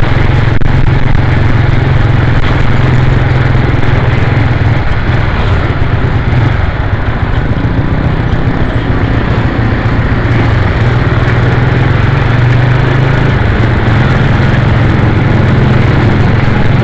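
Motorcycle engine running steadily at a fairly constant speed, loud and close, with a broad rushing noise over it; the level dips a little midway and recovers.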